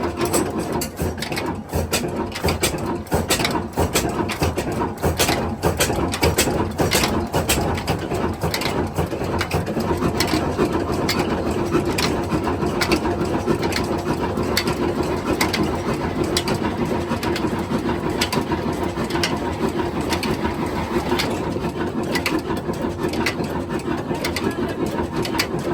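Diesel engine running with a steady hum and a dense, uneven clatter of knocks.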